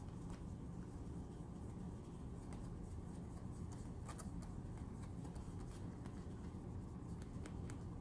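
Cloth rag buffing polish on a hard plastic toy car body: a soft rubbing with scattered faint ticks, over a low steady hum.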